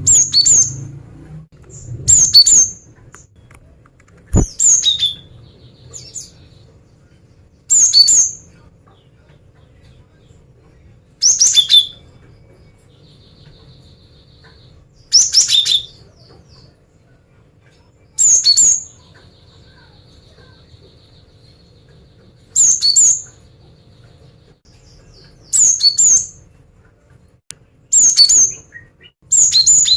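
Female cinereous tit calling in short, high-pitched bursts every two to four seconds, the calls a hen uses to draw in males.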